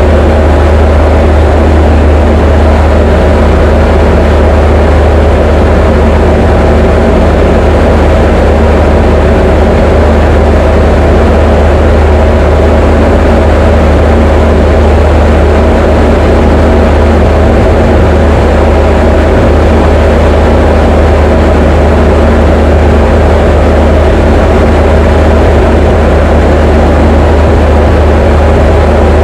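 Diamond DA20 light aircraft's piston engine and propeller running steadily in flight: a loud, unbroken drone with a strong low hum and several steady tones above it.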